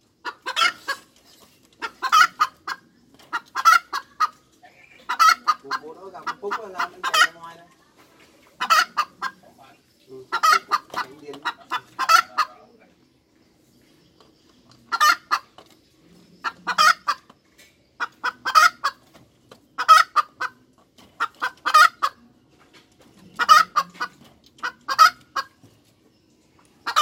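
Domestic hen cackling: repeated bursts of quick, sharp clucks every second and a half to two seconds, with a pause of about two seconds midway.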